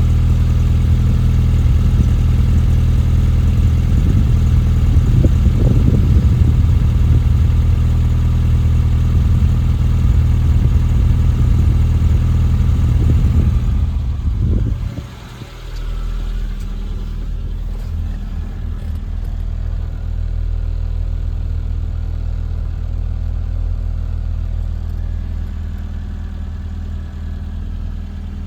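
Mini's 1.3-litre A-series MPI four-cylinder engine idling steadily soon after a cold start. About halfway through, the sound drops briefly, then carries on quieter and lower-pitched.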